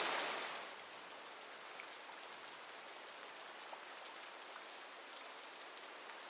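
Steady rain falling, with a few faint drops ticking. It is louder for the first half second, then settles to an even level.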